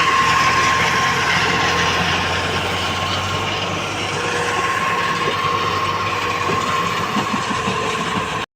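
Heavy diesel machinery running steadily, with a high whine held throughout; it cuts off abruptly near the end.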